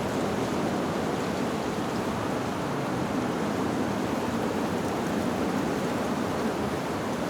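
Steady rushing of wind blowing through leaves, even and unbroken.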